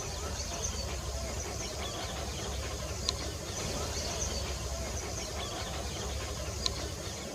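Steady outdoor background noise, a low rumble under a high hiss, broken by two brief sharp high chips about three and a half seconds apart.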